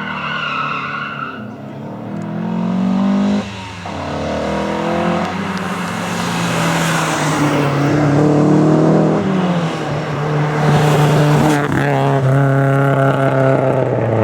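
Rally car engine revving hard through the gears. The pitch climbs, drops sharply at a gearshift about three and a half seconds in, climbs again and drops once more near the two-thirds mark, with tyre noise on the road surface.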